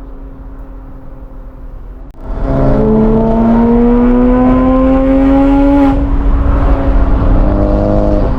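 Modified sports-car engine and aftermarket exhaust under acceleration. A moderate steady drone gives way, about two seconds in, to a much louder note that climbs slowly in pitch for several seconds. The pitch drops suddenly near six seconds, as at a gear change, and the note stays loud.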